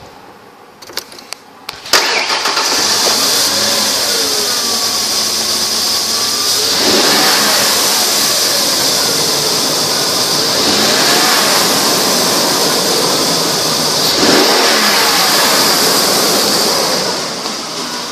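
1997 Ford Explorer engine starting suddenly about two seconds in, after a few clicks, then running with several rises and falls in revs, and dropping back near the end.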